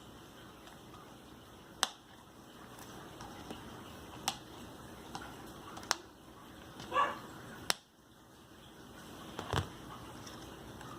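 Doll packaging being handled: a few sharp plastic clicks spaced a second or two apart, a brief crinkle about seven seconds in, and a dull thump near the end.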